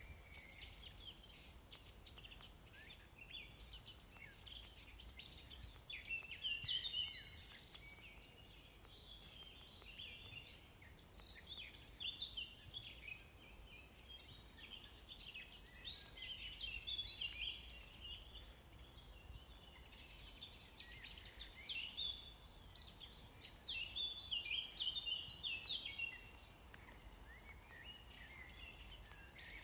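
Many small songbirds chirping and singing together, dense overlapping high calls that swell and fade every few seconds, over a faint low rumble.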